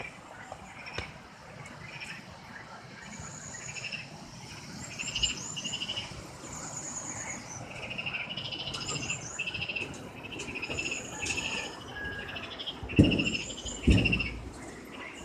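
Overlapping chorus of short chirps and rapid trills from small animals. Near the end come two loud low thumps, a second apart.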